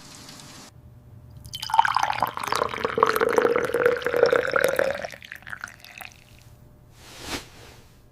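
Water pouring into a vessel, a splashy stream with dripping for about three seconds, followed near the end by a brief soft swish.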